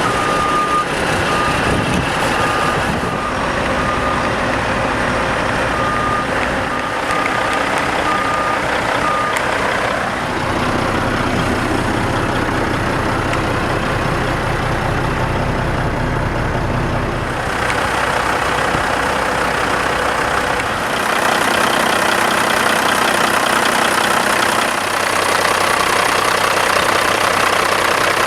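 Kenworth T800 dump truck's diesel engine running while its reversing alarm beeps repeatedly for the first nine seconds or so. Later the engine note changes and the sound grows brighter and slightly louder.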